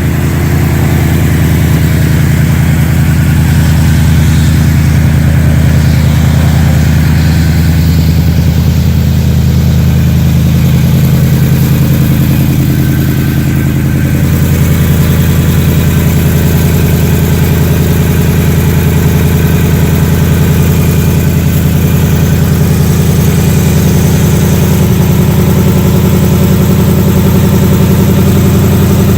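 2019 Ford Mustang GT's 5.0-litre V8 idling steadily just after a cold start. The engine is being listened to for the known 'typewriter' valvetrain tick of 2018–2019 GTs, and the owner hears no tick.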